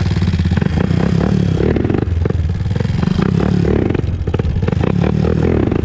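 2001 Honda TRX400EX's single-cylinder four-stroke engine running steadily under throttle as the quad rounds a left turn, with irregular clicks and knocks over it through the middle.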